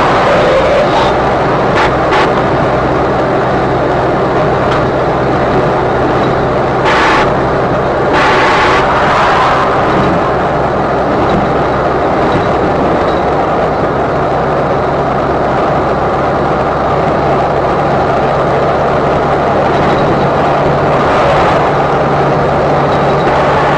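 A car driving, with steady road and engine noise and a low hum throughout. A few brief louder rushes of noise come about seven and eight to nine seconds in.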